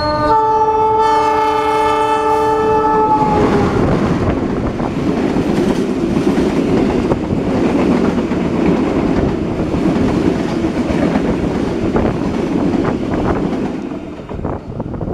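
A locomotive horn sounds a steady multi-note chord for about three seconds. Then a passenger train passes close by on the next track: a steady rumble of wheels and coaches, with clicks over the rail joints, dropping away near the end.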